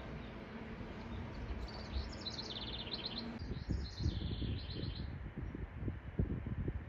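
Bird chirping: quick runs of high trilled chirps from about two seconds in, over low room noise, with a few soft low thumps later on.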